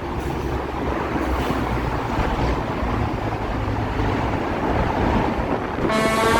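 A vehicle driving, with a steady rumble of road and wind noise. Music starts near the end.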